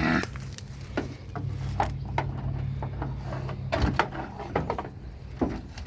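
Scattered metal clicks and knocks from a bent car door and its sticking latch being worked on, over a steady low hum that stops about four seconds in.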